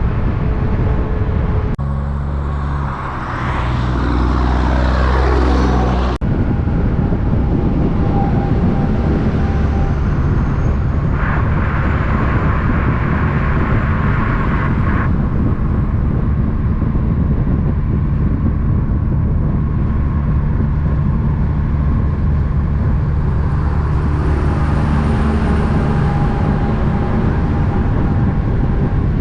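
Heavy diesel trucks running on a road, the engines' low drone steady throughout. In the first seconds one goes by with a falling pitch, and the sound changes abruptly where the footage cuts.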